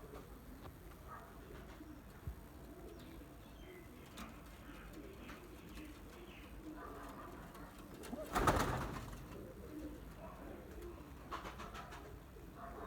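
Pigeons cooing softly, with a brief loud rustling burst about eight seconds in.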